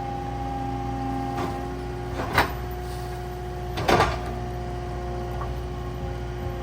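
Caterpillar 299D2 compact track loader's diesel engine running steadily, with two sharp clunks about two and a half and four seconds in, the second a little longer.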